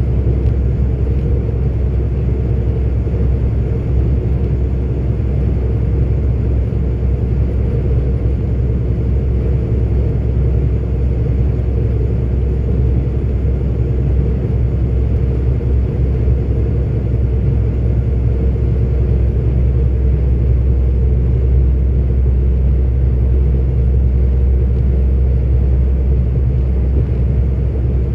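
Steady low rumble of a 44-ton articulated truck's engine and tyres while driving at an even pace.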